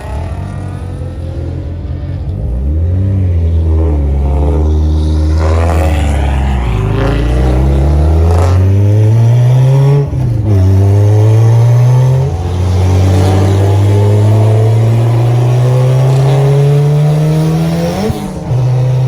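Turbocharged car engine accelerating hard through the gears. The pitch climbs steadily and dips sharply at each upshift: about halfway through, again shortly after, and near the end.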